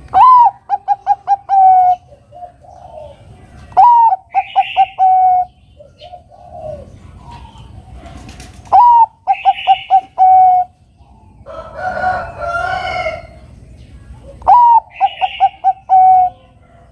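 Zebra dove (perkutut, Bangkok strain) singing its cooing song four times, each phrase a rising opening coo, a quick run of short coos and a longer closing note. A rougher call from another bird comes about twelve seconds in.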